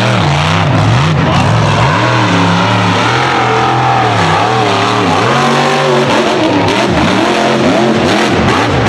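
Supercharged big-block V8 of a mega truck revving, its pitch rising and falling over and over as the throttle is blipped.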